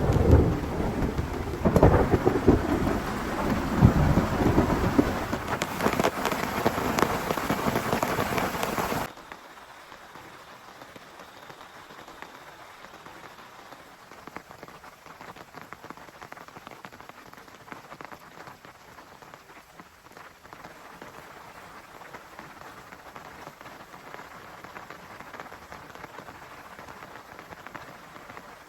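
Heavy downpour with rolls of thunder rumbling through it for the first nine seconds or so. It then cuts off suddenly to much quieter, steady rain pattering.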